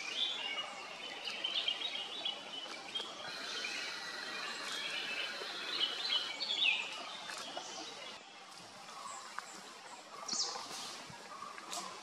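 Small birds chirping and calling over a steady hiss of outdoor background noise; the calls come thick for the first several seconds and thin out later, with one sharper, higher call about ten and a half seconds in.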